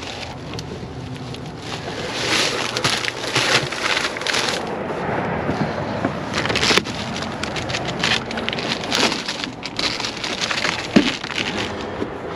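Plastic water bottles and a shopping bag rustling and crinkling close to the microphone as they are carried, in irregular bursts.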